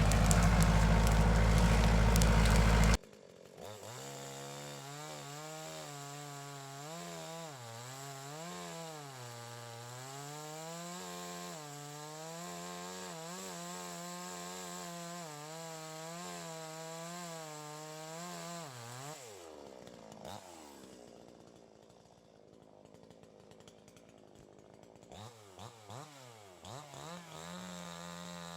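A loud, dense rumble for about three seconds stops abruptly. Then a gas chainsaw runs, its engine pitch rising and falling as it cuts. Around two-thirds through it drops back to a quieter idle, then near the end revs up again in short blips.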